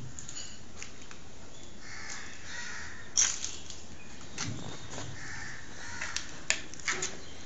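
A bird calling twice in the background, with a few sharp clicks, the loudest about three seconds in.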